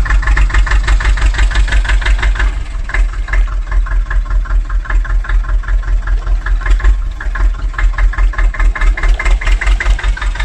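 Mini tractor's engine chugging steadily at about five beats a second as the loaded tractor drives off slowly, dipping briefly twice.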